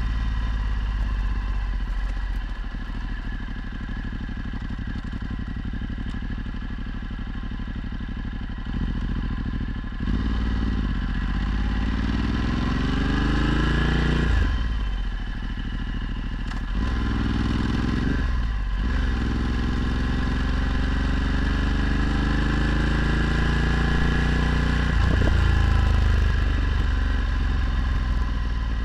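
Ducati Multistrada 1260's L-twin engine through a Termignoni exhaust, under way: the revs climb in several pulls, each broken by a short dip at a gear change, and ease off near the end.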